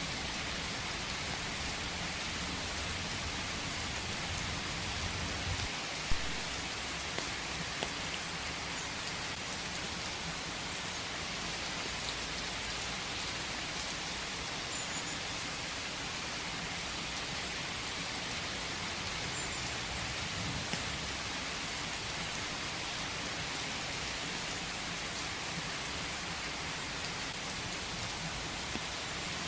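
Steady rain falling in a forest, a dense even hiss, with a few sharper drips between about six and eight seconds in, the first the loudest.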